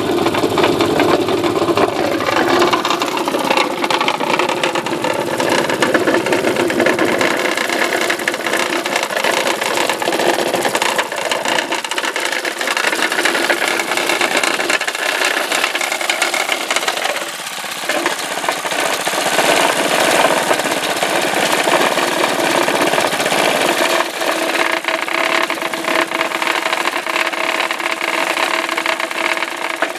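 Small Briggs & Stratton single-cylinder engine, revived after being found abandoned, running steadily on its own, with a brief dip in level about 17 seconds in.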